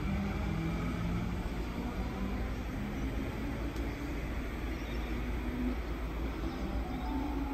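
Suburban electric train moving away along the track: a steady low rumble, with a low motor hum in the first couple of seconds that then fades.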